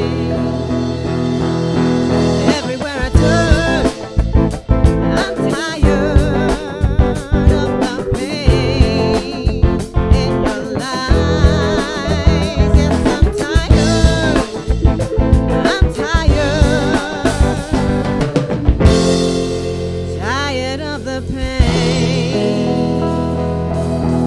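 Funk band playing an instrumental stretch with drum kit, bass, guitar and Hammond organ. Near the end the drums drop out, leaving sustained chords and a sliding melody line.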